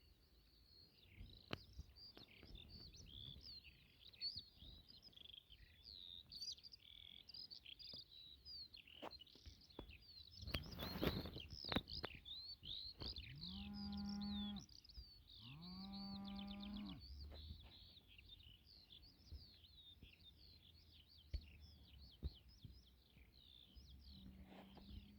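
Many small birds chirping and twittering without a break. About halfway through, a cow moos twice, each moo a little over a second long, and starts a third near the end. Just before the moos comes a short rush of noise.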